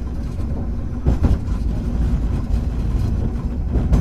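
Hankai Tramway car 351 running along the line, a steady low rumble of the tram's motors and wheels. Two short knocks come through, about a second in and near the end.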